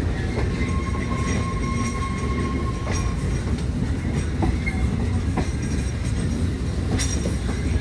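Passenger train rolling along the track, heard from the open end platform of a car: a steady low rumble of wheels on rail, broken by scattered clicks and knocks.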